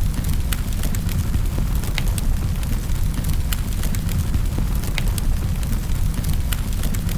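Wood fire crackling in a fireplace: a steady low rumble of the flames with sharp pops and snaps scattered throughout, a louder pop every few seconds.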